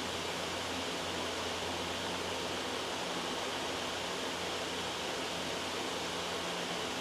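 Steady, loud white noise: an even hiss over a low hum, unchanging.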